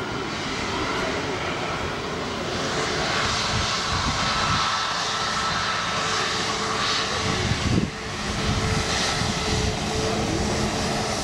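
Jet airliner engines running: a steady rush of noise with a few held whining tones over it. Gusts of wind buffet the microphone about seven to eight seconds in.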